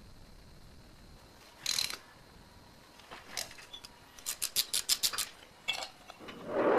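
Small mechanical handling sounds: a short scrape, then a quick run of about eight sharp clicks, and a louder, duller rustle or bump near the end.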